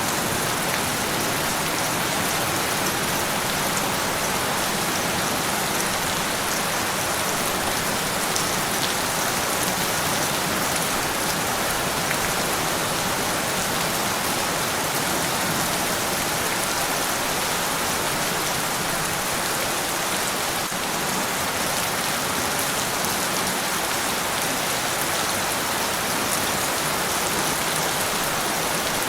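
Steady rain falling on a surface, a constant dense hiss with fine patter of individual drops.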